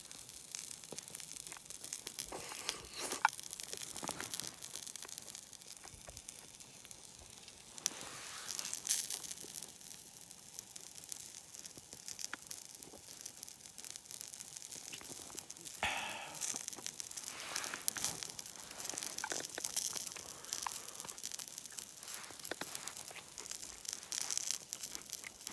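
Crackling of a wood campfire: a steady hiss of small crackles with scattered sharper snaps, and occasional rustling.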